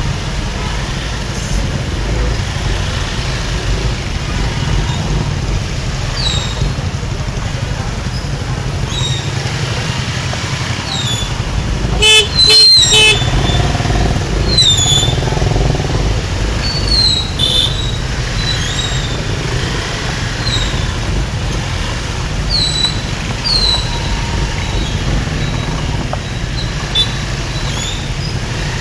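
Motorcycle riding through dense city traffic: a steady engine and road rumble, with a loud horn blast about twelve seconds in. Short, high, falling chirps recur every second or two.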